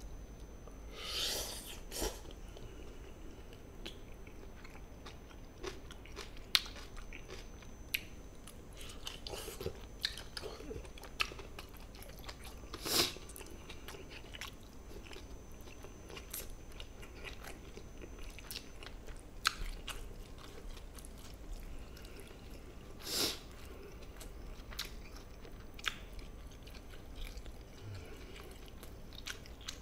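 Close-miked chewing and biting of gochujang stir-fried chicken, with scattered small clicks and a few louder mouth sounds about a second in, near the middle and about three quarters through.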